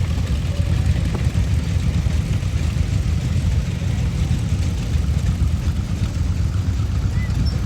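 Tractor engines running steadily at low speed, a continuous low rumble.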